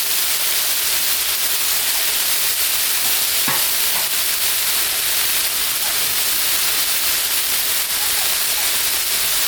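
Potato wedges and chopped broccoli and carrots sizzling steadily in oil and butter on a Blackstone flat-top griddle, with a spatula pushing them around the steel.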